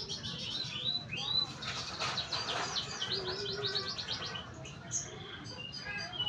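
Canary singing: a continuous run of fast chirps and rising and falling whistled notes, with a rapid trill of repeated notes about halfway through.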